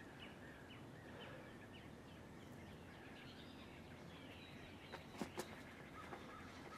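Quiet outdoor ambience with faint bird chirps, and a few brief clicks about five seconds in.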